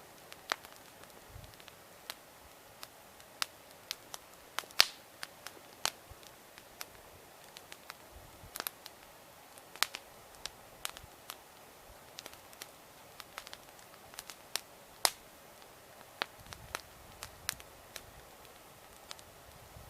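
Wood campfire crackling, with irregular sharp pops and snaps of burning wood, a few a second, some louder than others.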